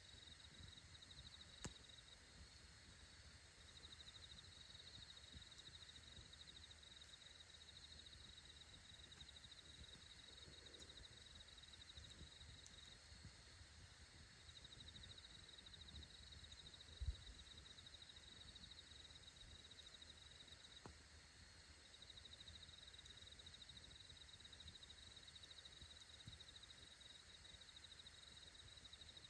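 Near-silent outdoor night ambience: a faint, high, rapidly pulsing insect trill comes and goes in long stretches, with a few faint pops from the campfire and one soft low thump in the second half.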